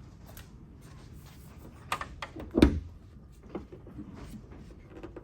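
Pickup truck's hood being opened: a sharp click about two seconds in, then a louder thump, with a few lighter knocks afterwards.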